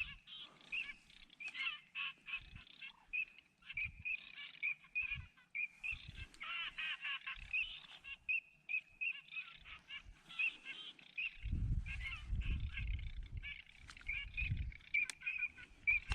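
A flock of ducks calling continually, a dense chatter of quacks and honks. Low rumbles come and go, about eleven seconds in and again near the end.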